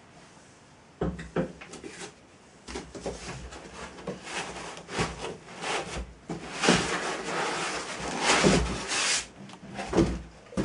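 Irregular knocks, clicks and rubbing or scraping of objects being handled by hand. The sound starts about a second in and is busiest a little past the middle.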